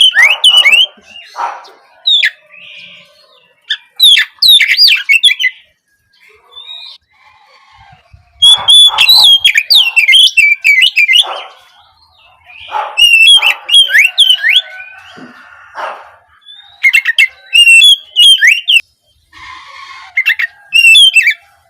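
Oriental magpie-robin (kacer) singing: loud bursts of rapid whistled notes and sweeping chatter, about half a dozen phrases broken by short pauses.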